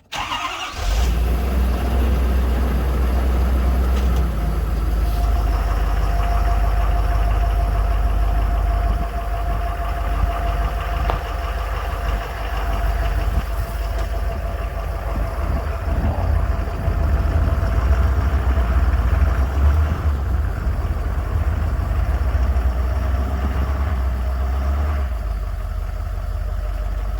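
Heavy farm diesel engine running steadily with a deep rumble, coming in suddenly from silence at the start.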